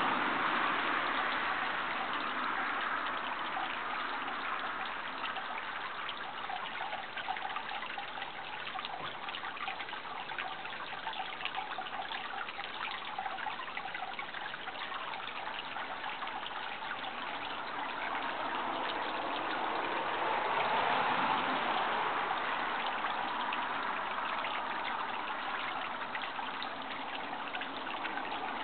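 Water running and trickling, a steady splashing rush like a small stream, swelling a little about twenty seconds in.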